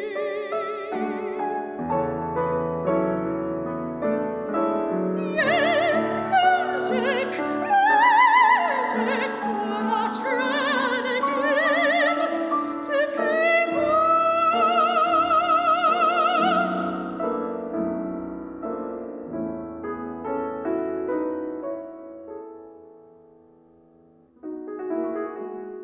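Soprano singing an operatic aria with piano accompaniment. The piano plays alone at first; the voice comes in with wide vibrato, rises, and holds a long high note, then the piano carries on alone, fades almost away, and re-enters near the end.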